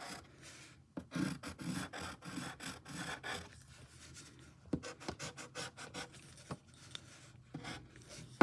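Quick, short drawing strokes scratching on paper as fur is sketched in on a paw, faint and irregular, several strokes a second.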